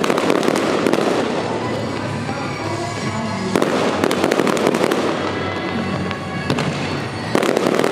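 Aerial firework shells bursting overhead in a dense run of bangs and crackling. Fresh volleys come in at the start, about halfway through and again near the end.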